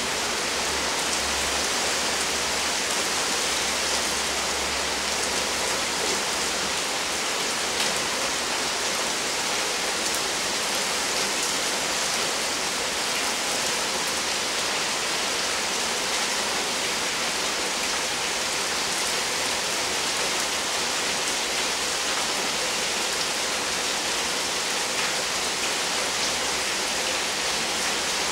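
Steady rain falling on roofs, grass and pavement in a thunderstorm, an even, unbroken hiss.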